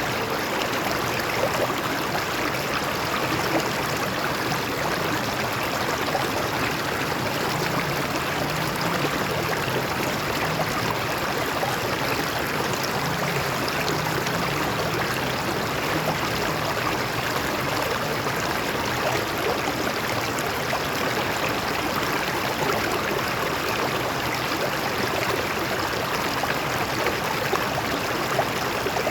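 Stream water flowing and splashing over rocks, a steady even rush.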